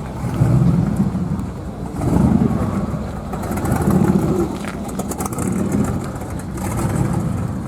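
Car engines running low and slow as cars pull away, the rumble swelling and fading four times as they pass.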